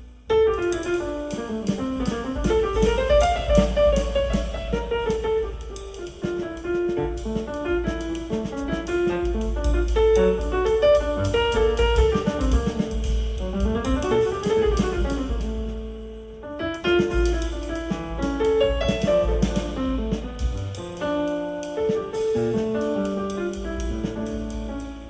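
Instrumental music with piano and drums over a deep bass line, played on a high-end car audio system. It dips briefly about two-thirds of the way through.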